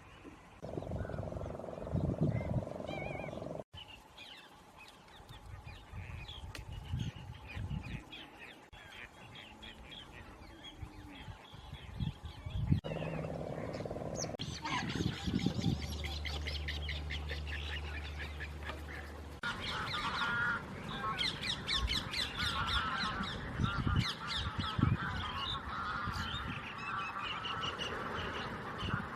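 Wetland birds calling in a flock, a busy mix of honking and chattering calls that changes abruptly several times.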